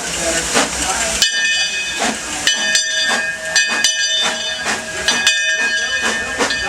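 Steam locomotive pulling out: steam hissing, then from about a second in a steady high whistle-like tone, briefly broken and then held, with regular exhaust chuffs beating under it.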